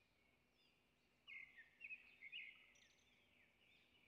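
Near silence with faint bird chirps in the background, a short cluster of calls between about one and two and a half seconds in.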